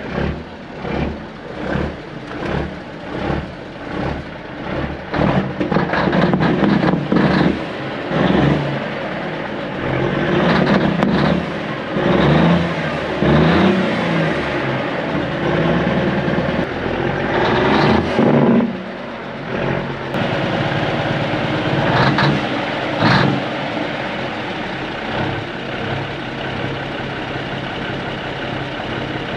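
Kenworth W900A dump truck's mechanical Cummins 8.3 diesel, chugging in a steady pulse for the first few seconds, then revved up and running hard, with a brief drop near the middle before it settles to steady running. The chug is what the owner puts down to a dirty injector from the truck sitting.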